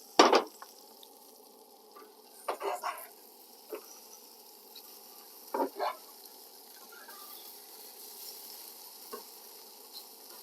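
Food sizzling steadily in a frying pan, with a few short, sharper sounds over it, the loudest right at the start.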